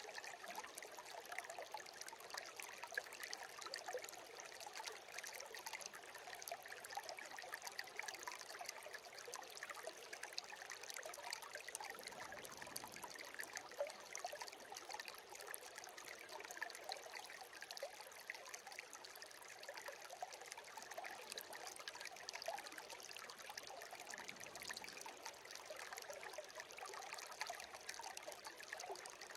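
Shallow brook babbling and trickling steadily, a light splashing with little deep rumble.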